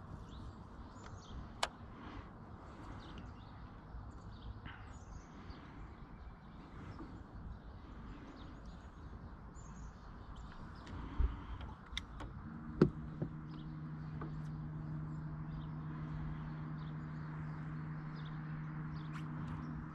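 Small birds chirping repeatedly over outdoor background noise, with a few sharp clicks around the middle. About two-thirds of the way through, a steady low hum starts and keeps going.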